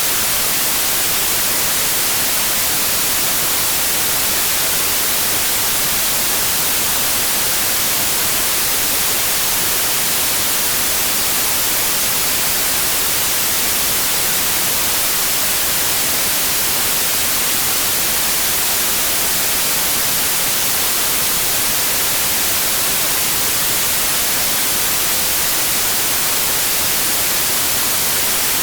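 Steady white noise: an even, unchanging hiss spread across all pitches, with no tones or breaks.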